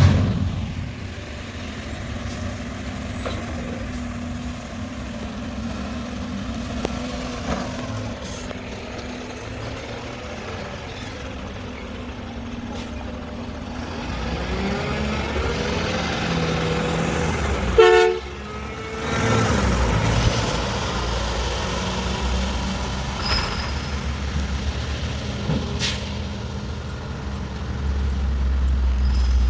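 Diesel engine of a Mack McNeilus front-loader garbage truck running steadily, then rising in pitch as it revs. A single brief loud blast comes a little past halfway through.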